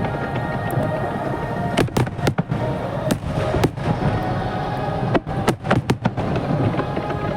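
Fireworks shells bursting in the sky over a grand-finale display set to music. Sharp bangs come in quick clusters, about two seconds in and again around five to six seconds in, over a continuous low rumble and the accompanying music.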